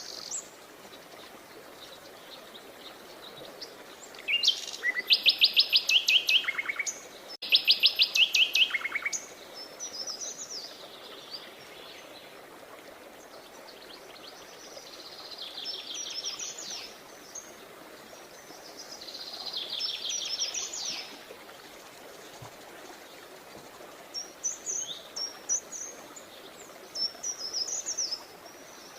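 Songbirds singing. Rapid trills and chirps come in phrases every few seconds, the loudest two a little after the start, over a steady background hiss.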